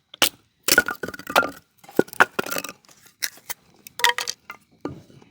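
A loud, irregular clatter of hard objects knocking and clinking together, some strikes with a short metallic ring, as firewood and gear are handled to build a campfire.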